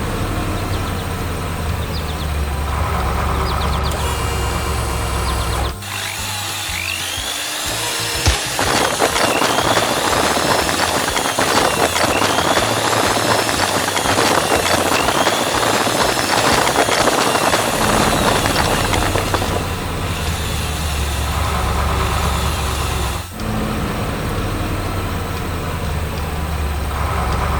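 Animation sound effects of construction machinery over background music: a low engine rumble, and from about eight to eighteen seconds a dense grinding, drill-like noise with repeated swooping tones.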